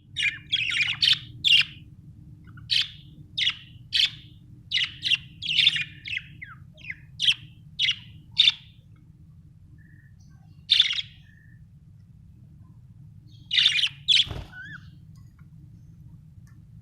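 Budgerigar chirping: short, sharp chirps in quick runs for the first nine seconds or so, then only a few scattered chirps, with a steady low hum underneath.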